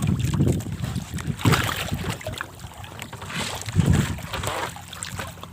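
Water sloshing and splashing in a few short rushes, with wind buffeting the microphone.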